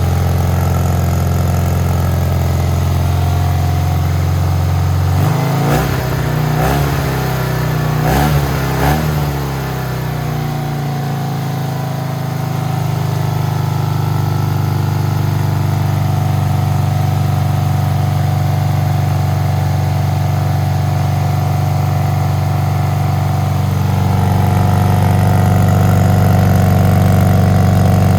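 Classic Fiat 500's air-cooled two-cylinder engine, bored up to 750cc, running. Its note wavers and shifts in pitch a few times about five to ten seconds in, then settles into a steady, higher hum that grows a little louder near the end.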